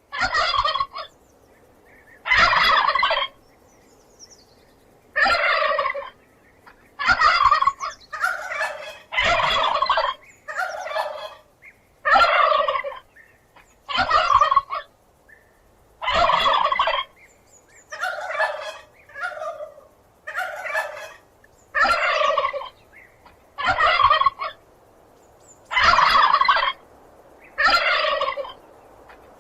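Turkey gobbling: a long series of short, rattling gobbles, each under a second, repeated every second or two.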